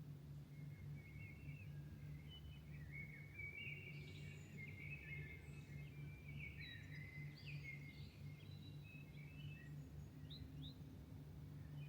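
Songbirds singing at dawn, faint chirps and short trills coming thickest through the middle, over a steady low hum.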